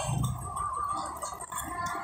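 Close-up wet chewing and mouth sounds of a person eating fried catfish.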